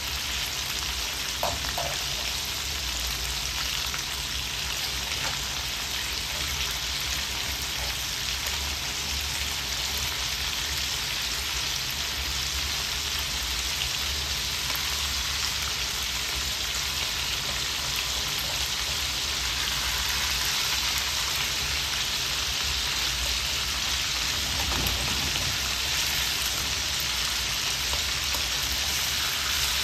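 Chicken pieces sizzling as they brown in shallow hot oil in a wok, a continuous hissing crackle.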